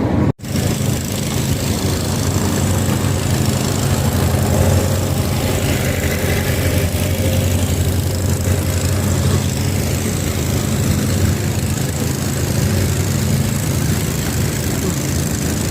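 An engine running steadily: a low, even drone with a rushing noise over it, after a sudden break just at the start.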